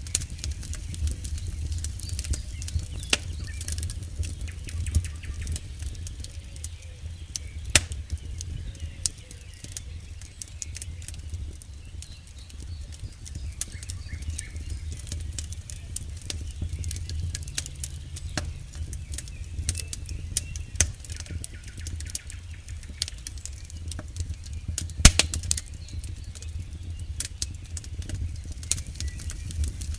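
Campfire burning: a steady low rumble of flames with irregular crackles and pops of burning wood, one sharper pop about 25 seconds in.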